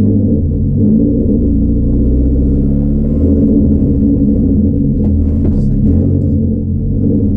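A rally car's engine running steadily at low revs, heard from inside the stripped cabin as a loud, even drone. A few faint clicks come about five seconds in.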